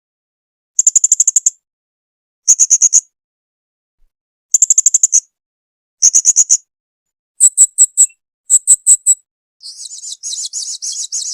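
Blue-crowned hanging parrot (serindit) calling: short, high-pitched rapid trills of about half a second each, repeated every second and a half or so, then a few sharper, higher single notes, and near the end a longer, buzzier chatter.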